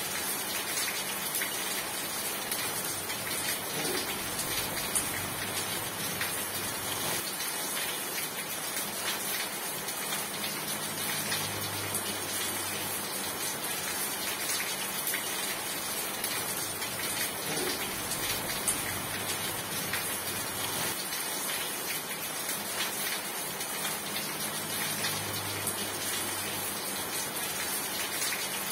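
Steady rain: an even hiss of falling rain with scattered drop ticks. A faint low hum comes and goes underneath.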